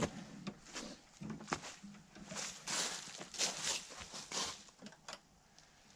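Faint, irregular rustling and crunching of footsteps in dry leaves.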